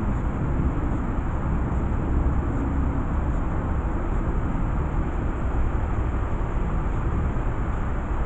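A steady low rumble of outdoor noise with no distinct events.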